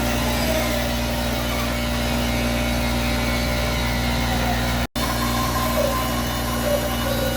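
Electric bandsaw running steadily with a constant motor hum, cutting out for an instant about five seconds in.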